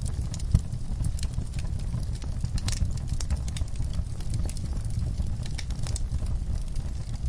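Wood-burning fireplace crackling: irregular sharp pops and snaps over a steady low rumble of the fire.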